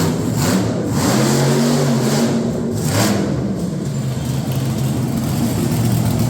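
Monster truck engine revving, its pitch rising and falling.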